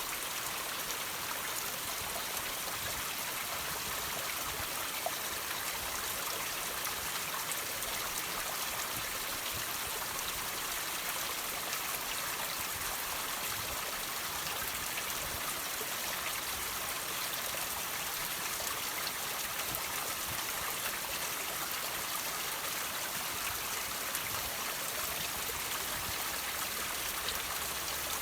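Water trickling and dripping off rocks, a steady even splashing with small drops ticking now and then.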